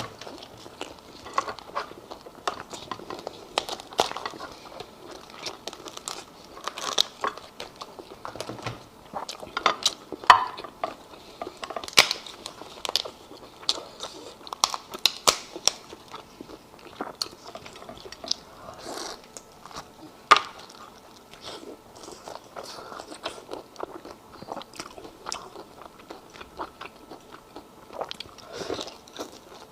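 Close-miked eating: crunchy bites and chewing, with many sharp crackling clicks, the loudest about ten and twenty seconds in.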